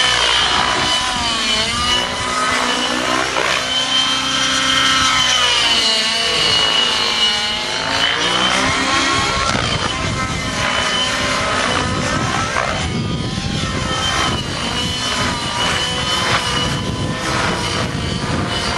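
Nitro RC helicopter in aerobatic flight, its glow engine running through a tuned pipe. The engine and rotor note sweeps up and down again and again as it passes and manoeuvres, over a steady high whine.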